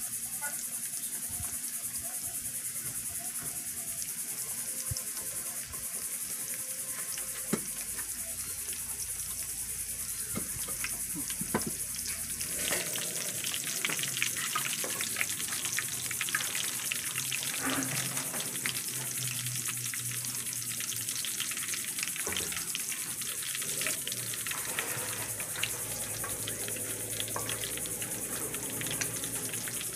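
Breaded shrimp frying in hot oil in a skillet: a steady sizzle with fine crackling pops, which get busier from about twelve seconds in.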